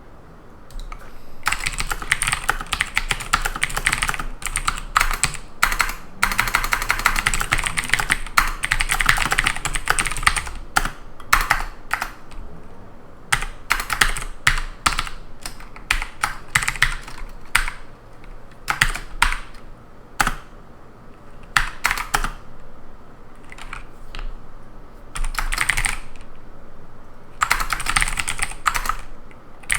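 Typing on a computer keyboard: quick runs of keystrokes, with pauses and scattered single key presses in between.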